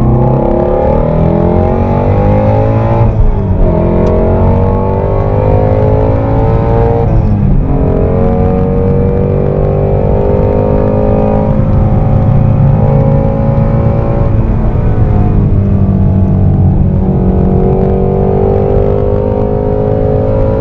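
Ford Mustang Shelby GT350R's 5.2-litre flat-plane-crank V8 heard from inside the cabin under hard acceleration on track, its pitch climbing with the revs and dropping sharply at gear changes several times.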